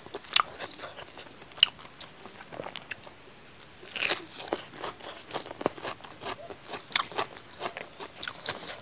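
Close-miked chewing and biting of a mouthful of rice and chicken curry eaten by hand: a run of short crunches and mouth clicks, with a louder cluster about four seconds in as a fresh handful goes into the mouth.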